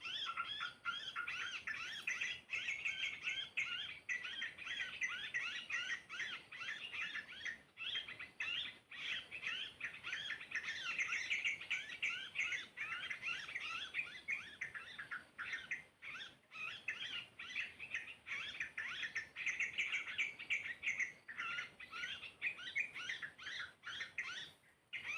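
Many birds chirping and twittering in a dense, continuous chatter of quick high notes, dropping briefly just before the end.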